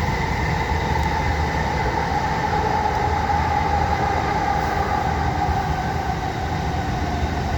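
Passenger train running along the track, heard from on board: a steady rumble with a whine that sinks slightly in pitch.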